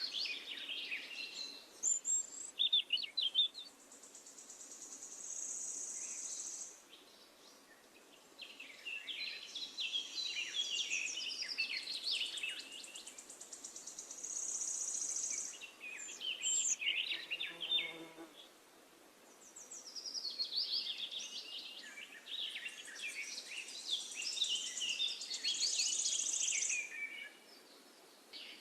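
Birds chirping over a high, steady buzz like insects, in bursts of a few seconds with short lulls between.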